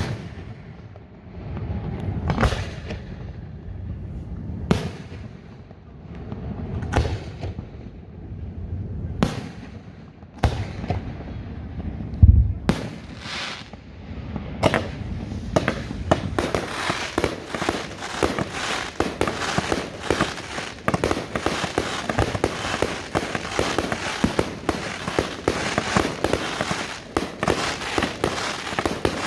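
Fireworks display: single shell bursts about every two seconds at first, then from about halfway a dense barrage of rapid bangs and crackling.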